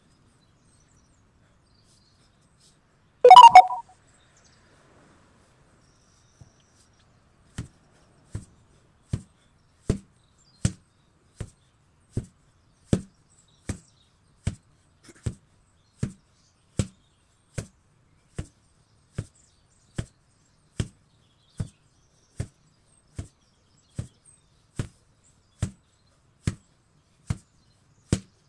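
An 8 kg sledgehammer struck over and over at an even pace, about one blow every 0.8 seconds, starting about seven seconds in. Before the blows begin there is one short, very loud noisy burst.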